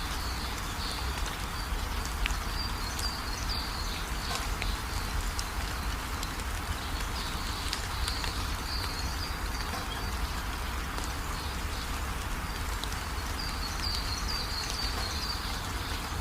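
Steady rainfall, a continuous hiss with scattered drop ticks. Short runs of high chirping come three times, once early, once mid-way and once near the end.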